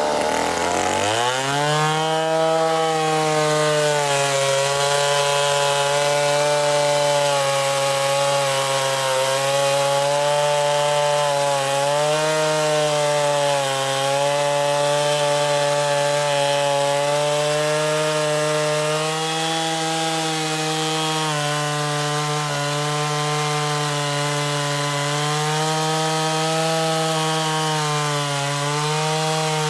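Stihl Contra Lightning two-stroke chainsaw, enlarged to 137 cc, at full throttle cutting through wood. Its pitch drops as the chain bites about a second in, then holds steady under load with small wobbles.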